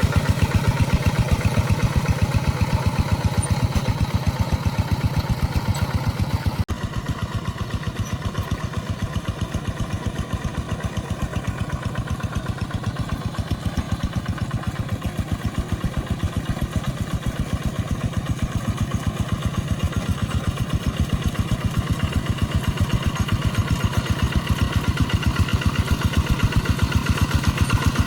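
Engine of a rice-field tractor running steadily with a fast, even firing beat. A sudden cut about six and a half seconds in, after which it runs a little quieter.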